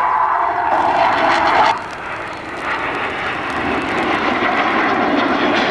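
Fixed-wing aircraft engine noise from a display flypast. It is a loud, even rush with a steady tone until about a second and a half in, then dips and builds up again.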